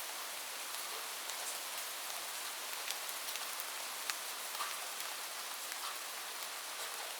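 Steady rain on a roof: an even hiss with scattered sharp ticks of single drops.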